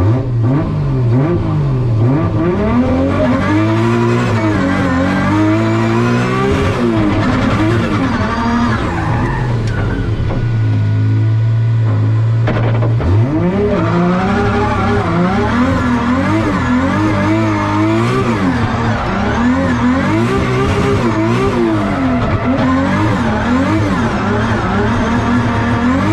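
Drift car's 2JZ straight-six engine being driven hard. The revs rise and fall over and over with tyres squealing, settle to a steadier note for a couple of seconds about ten seconds in, then climb sharply again.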